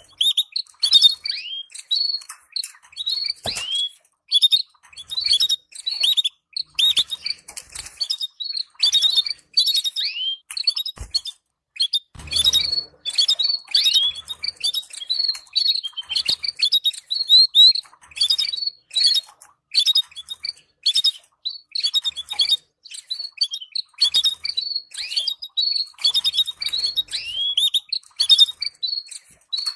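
Canaries chattering in the soft, rapid twittering known as tabtaba, used by breeders to stimulate pairs into breeding: a dense run of short high chirps and little trills with brief gaps. A few soft low thumps come through, about a third of the way in.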